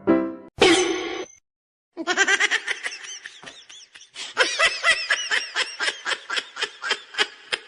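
High-pitched giggling laughter in a fast run of short chirps, several a second, pausing briefly midway, after a short loud sound near the start.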